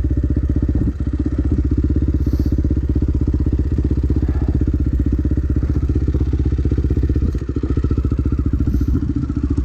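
Dirt bike engine running steadily at low revs with an even, rapid beat of firing pulses, dipping briefly twice.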